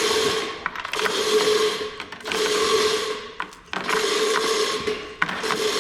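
Chain hoist lifting a push lawn mower by its chains, run in about five bursts of roughly a second each with short pauses, each burst carrying a steady mechanical whir.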